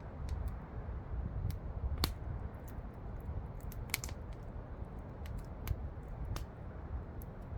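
Campfire wood crackling and popping in irregular sharp snaps, a few louder pops among them, over a low steady rumble.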